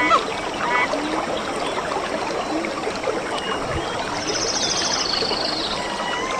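Stream running with a steady rush of water, with birds chirping over it and a short, high, rapid trill from a bird about four seconds in.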